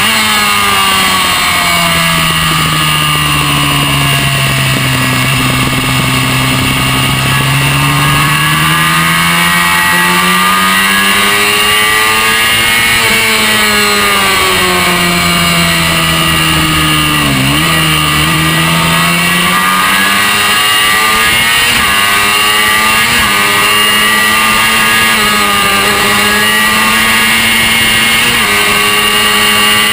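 Honda NC30 (VFR400R) race bike's V4 engine at speed on track, heard from on board. The revs sag for several seconds at the start, climb again, drop sharply with a quick blip about halfway through, then rise and fall in a series of quick gear changes.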